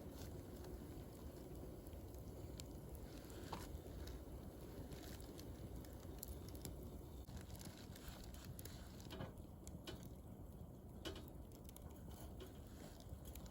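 Wood campfire crackling faintly: scattered sharp pops and snaps over a low, steady rumble.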